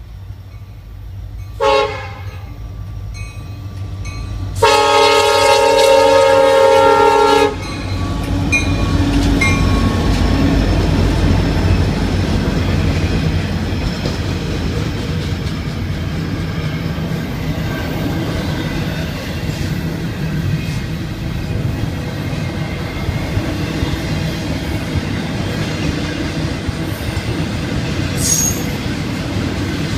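Florida East Coast Railway diesel locomotives sound a short horn blast, then one long loud horn blast lasting about three seconds. The engines then rumble past and the intermodal cars roll by with steady wheel-on-rail clatter. There is a brief high squeal near the end.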